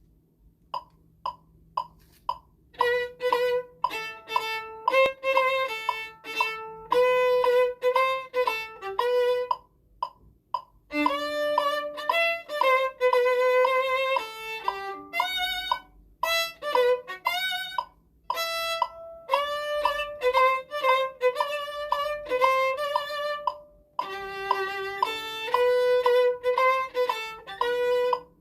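Solo violin playing a melody note by note, in phrases with short pauses between them.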